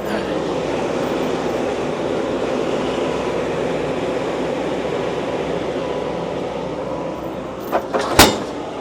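An engine running steadily, with a sharp knock about eight seconds in.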